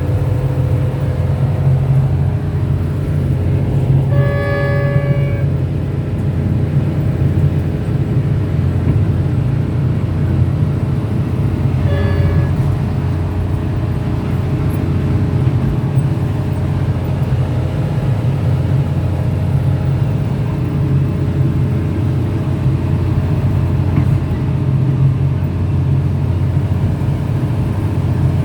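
Train running with a steady low engine rumble, heard from inside the driver's cab. Its horn sounds once for about a second and a half a few seconds in, and briefly again about twelve seconds in.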